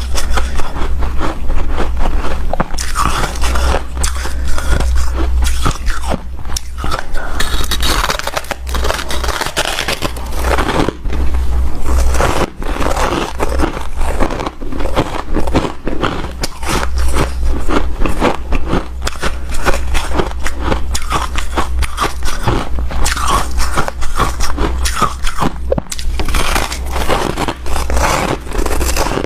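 Close-up biting and chewing of hard, powdery snow-type freezer ice: a continuous run of many small crunches.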